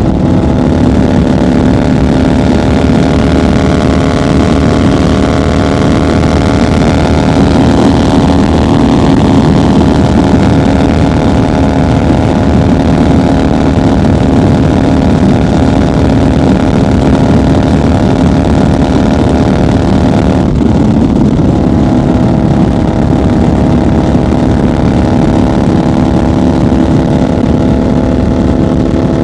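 1990 Harley-Davidson FXR's V-twin engine running steadily at highway cruising speed, with a brief break and change in engine note about twenty seconds in.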